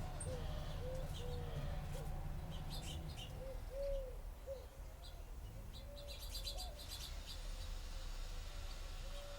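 A flock of birds calling at a feeding spot: short, low, arched coo-like notes repeat every half second to second, mixed with scattered high chirps and a quick flurry of chirping about six seconds in, over a steady low rumble.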